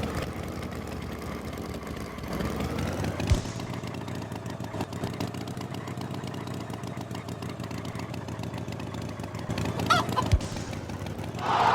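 A motor running steadily, with a short honk-like call about ten seconds in and a couple of brief thumps.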